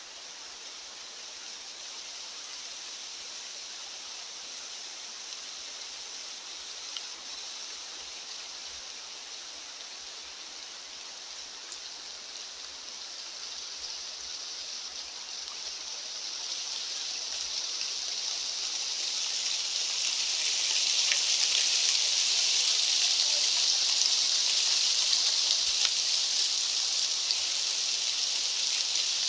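A steady rushing hiss of outdoor ambience with no pitch in it. It swells louder over a few seconds just past the middle and then holds at the louder level.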